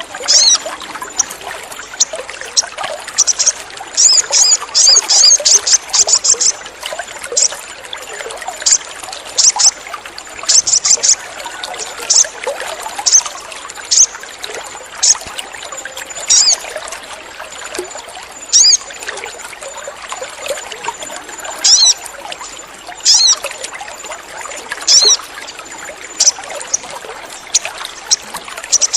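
Sogon bird calling in short, sharp, high chirps and quick chattering runs, over a steady trickle of running water.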